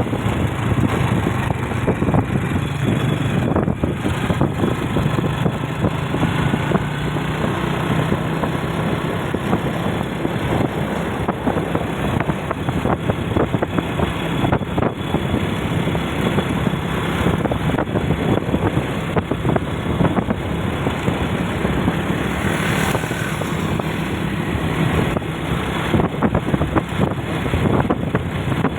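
Motor vehicle travelling along a road: steady engine and road noise that continues unbroken, with a low engine hum that is strongest in the first few seconds.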